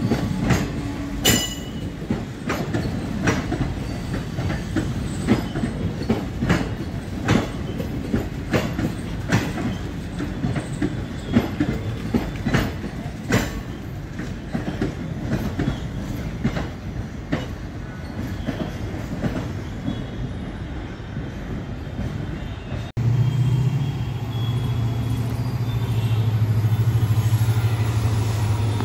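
Indian Railways passenger coaches rolling past close by, their wheels clicking over rail joints about once a second over a steady rumble. About three-quarters of the way through, the sound changes to an approaching EMD diesel locomotive, a steady low engine drone growing louder.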